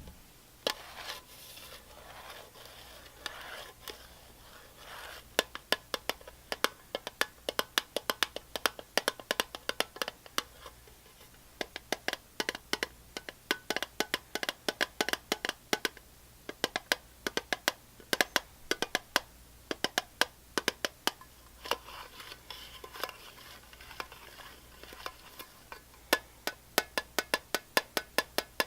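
Soft scratching for the first few seconds, then quick, irregular tapping, several taps a second, with another stretch of scratching under the taps about three quarters of the way through.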